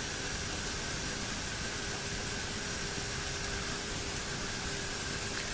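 Steady cockpit noise of a turboprop airliner in flight: an even hiss with a faint steady hum underneath.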